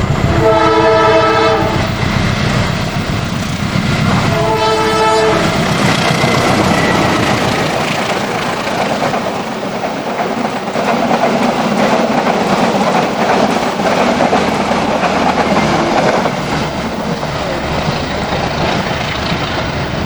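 Indonesian passenger train passing close by. The diesel locomotive sounds its horn in two blasts of over a second each, a few seconds apart, over a deep engine rumble. After that the carriages roll past, with wheels clacking steadily over the rail joints.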